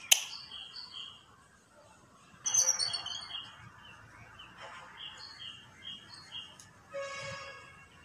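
A bird calling in rows of short, high chirps, a few a second, with a louder, harsh chattering burst about two and a half seconds in. Two sharp clicks come right at the start, and a short pitched tone sounds near the end.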